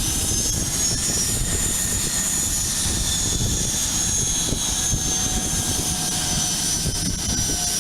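Learjet's jet engines running, a steady high whine over a low rumble.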